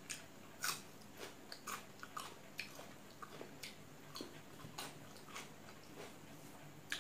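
Close-miked eating: mouth chewing and smacking on a mouthful of rice and kenaf curry, with short sharp wet clicks at an uneven pace of about two a second.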